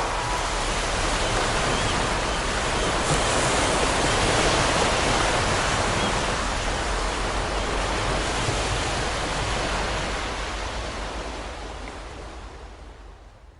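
Steady rushing wash of ocean surf, swelling slightly and then fading out over the last few seconds.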